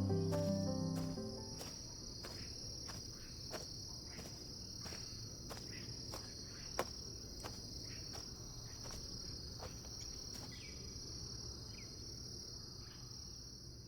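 A steady, high-pitched chorus of insects chirring without a break, with a few faint clicks over it. Background music fades out in the first couple of seconds.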